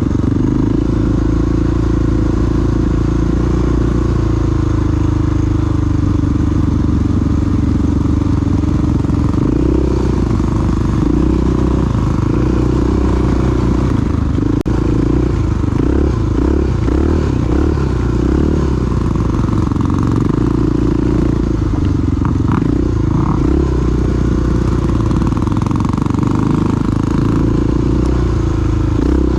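Big single-cylinder four-stroke dual-sport motorcycle engine running while the bike is ridden, the engine note rising and falling a little with the throttle.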